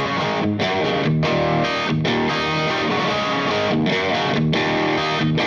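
Electric guitar playing chords through the Valco Bloodbuzz pedal's overdrive, a loud distorted sound with brief breaks where the chords are re-struck.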